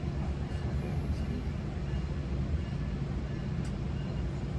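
Steady rumble of a GO Transit commuter train running on the rails, heard inside a passenger coach, with faint thin tones and a few light ticks above it.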